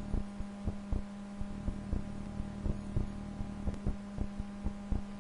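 Steady electrical hum on the recording, with irregular soft low thumps several times a second.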